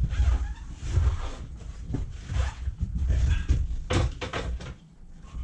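Irregular rustling and handling knocks as objects are moved and set down, with one sharper knock about four seconds in.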